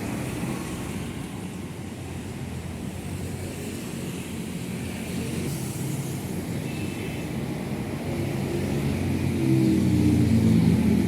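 Road traffic passing, with a truck or bus engine growing louder over the last few seconds as it comes close and goes by.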